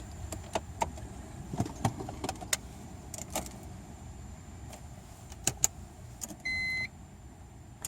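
Low, steady rumble with a scattered series of light clicks and knocks, and one short electronic beep about six and a half seconds in.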